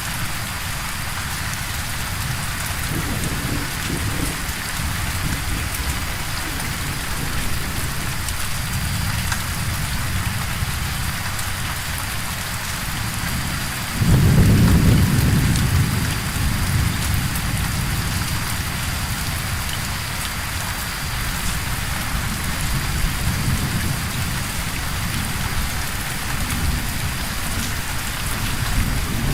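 Steady rain with low rumbling thunder. About halfway through a louder thunderclap breaks in suddenly and rolls away over a few seconds.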